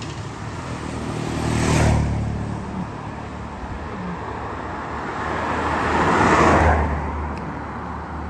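Road traffic: two vehicles pass close by, each swelling and fading, the first about two seconds in and a longer, louder one about six and a half seconds in, over a steady low engine hum.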